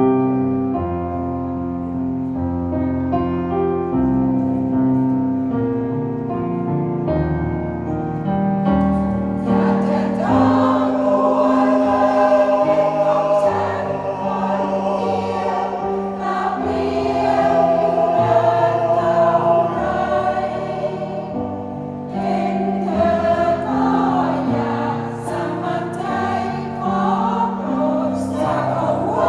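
Piano playing alone, then a choir of older adults comes in about a third of the way through and sings with the piano accompaniment.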